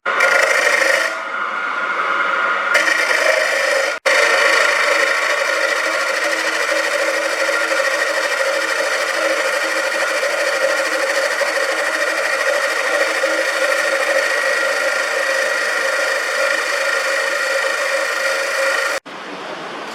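Metal lathe running: a steady machine whine of several fixed pitches, broken by sudden cuts about three and four seconds in and again near the end.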